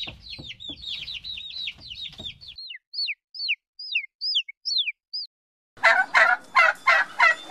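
Baby chicks peeping: many quick, high, falling peeps that thin out to a few separate ones by about five seconds in. Then, near the end, a turkey gobbles in a fast run of loud, lower notes.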